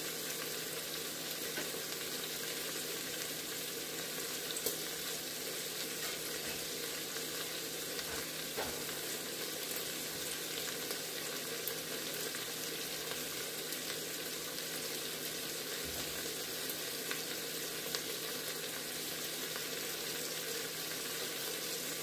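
Steady background hiss with a low hum, broken only by a few faint ticks.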